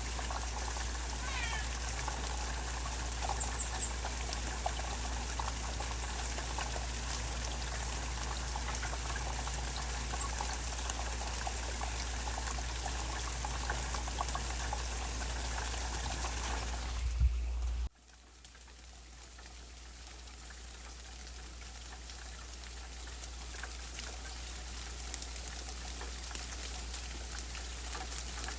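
Steady rain falling and dripping, with a few short high bird chirps in the first few seconds. About two-thirds of the way through there is a brief knock, then the sound cuts off abruptly and the rain fades back in over the next ten seconds.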